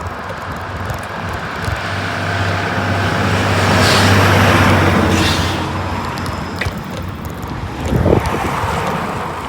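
A motor vehicle passes, its noise swelling to a peak about four seconds in and then fading, over steady wind and road noise.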